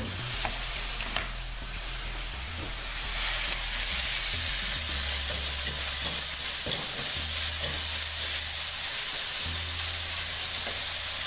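Crushed onions frying in hot oil in a pan: a steady loud sizzle with a few light clicks.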